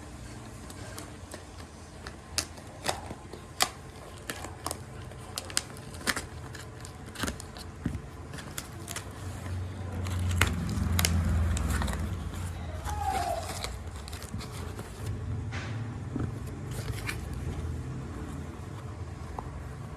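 Scattered clicks, scrapes and crackles of packaging being handled and opened, with a low rumble swelling about halfway through.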